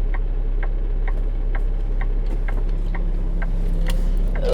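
Semi truck turn-signal flasher clicking steadily, about two clicks a second, over the low, steady drone of the truck's diesel engine heard from inside the cab.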